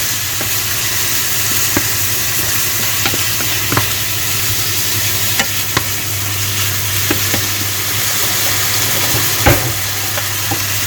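Chicken breast pieces frying in oil in a pan, a steady sizzle, with scattered clicks of a utensil stirring against the pan, the sharpest about nine and a half seconds in.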